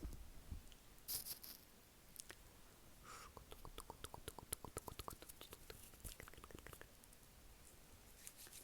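Close-miked ASMR mouth sounds: a short breathy hiss about a second in, then a fast run of small wet mouth clicks through the middle, fading out near the end.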